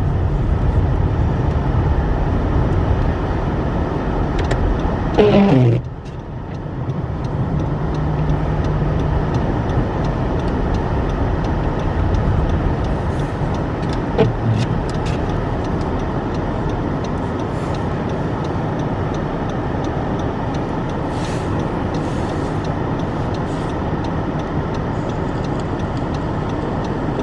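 Steady road and engine noise heard from inside an all-wheel-drive vehicle's cabin as it drives slowly on snow-covered roads. A brief wavering pitched sound about five seconds in, and a few faint ticks later.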